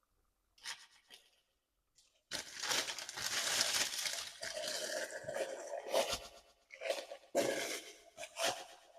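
Paper or plastic packaging being crinkled and torn: a short rustle, then a long stretch of crackling, with a few separate crinkles near the end.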